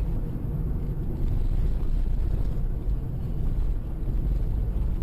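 Steady low rumble of a car on the move: engine and road noise, with no sharp impacts.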